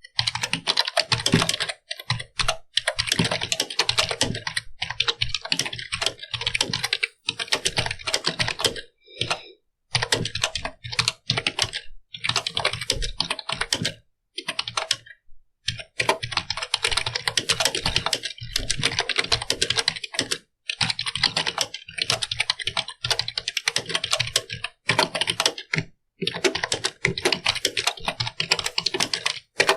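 Fast typing on a computer keyboard: quick runs of key clicks broken by short pauses every few seconds, with a longer pause about fourteen seconds in.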